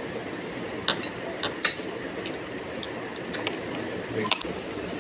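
A few short, sharp clicks and clinks, scattered irregularly, over a steady background hiss.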